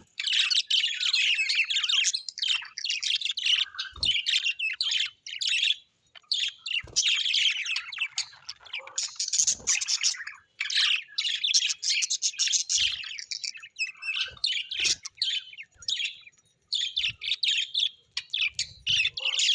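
Small parrots chirping and chattering almost without pause, a dense high twittering broken by short gaps.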